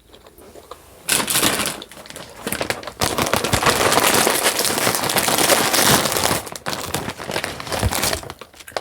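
Loud crinkling and crackling of packaging handled close to the microphone. It starts about a second in, grows loudest in the middle and eases off near the end.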